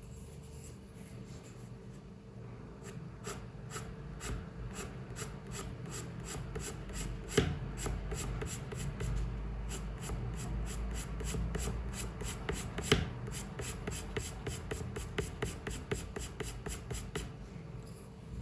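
Quick, repeated drawing strokes on paper, about three a second, scratchy and rhythmic, with two sharper taps along the way. A steady low hum runs underneath.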